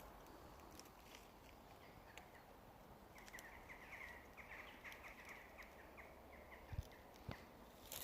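A bird calling in a run of short, quickly repeated notes for a few seconds, over faint outdoor background. Two low thumps come near the end.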